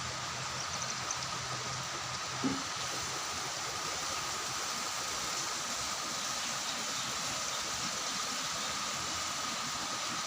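Steady rushing water noise in heavy rain, with one short knock about two and a half seconds in.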